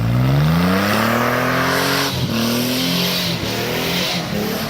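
Nissan pickup's engine revving hard under load in four-wheel low, its pitch climbing over the first second and then holding. About two seconds in it dips, then picks up again unevenly. A loud rushing noise runs through the middle of it.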